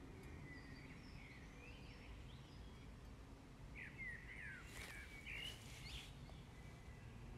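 Faint outdoor ambience: a steady low rumble with scattered short bird chirps, the busiest run of chirps about two-thirds of the way through.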